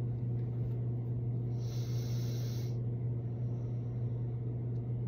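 A steady low hum, with a single short hiss about a second long near two seconds in.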